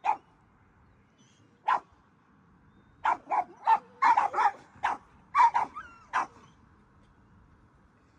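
A dog barking in short, sharp barks: two single barks a couple of seconds apart, then a quick run of about ten barks that stops about six seconds in.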